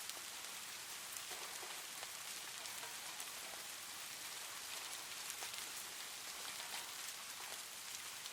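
Steady rain with no thunder: an even hiss of rainfall with many individual drops ticking on a surface.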